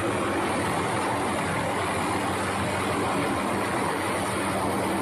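Steady engine drone, a constant low hum under an even rushing noise, with no change in pitch or level.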